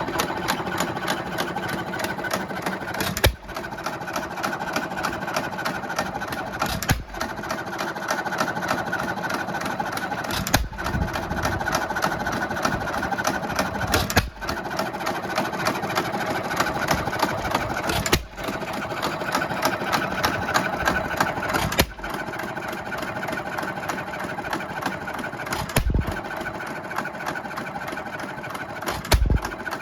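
1920 Economy 2 1/2 HP hit-and-miss gas engine running unloaded on its rebuilt Webster magneto, with a fast, steady clatter of clicks. A sharp, louder bang comes about every three to four seconds, where the engine fires between coasting strokes. It runs fast on this first test run.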